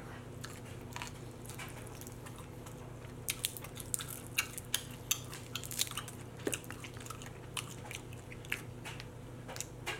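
Close-miked eating of chicken wings: wet chewing and lip smacking, with many short sharp clicks mostly from about three seconds in, over a faint steady hum.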